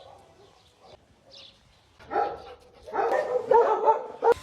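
A dog barking: a bark about two seconds in, then a quick run of barks over the last second and a half.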